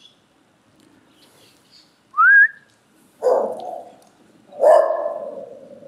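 A short rising whistle about two seconds in, followed by a dog giving two loud calls. The second call trails off into a longer held note.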